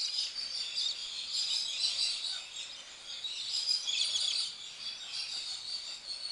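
Small birds chirping and twittering, many short high calls overlapping without a break.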